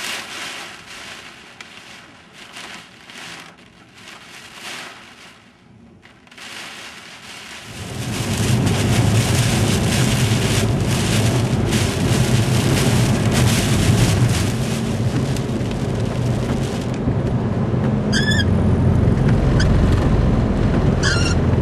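Wind-driven rain from a coastal storm squall. It is gusty and fainter at first, then about eight seconds in it turns into a loud, steady downpour with a deep rumble under it. A few short squeaks come near the end.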